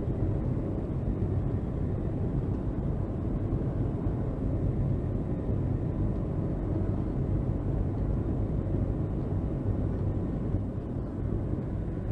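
Jet airliner's engines heard from inside the passenger cabin: a steady, dense rumble with faint steady whining tones above it, as the plane begins its takeoff.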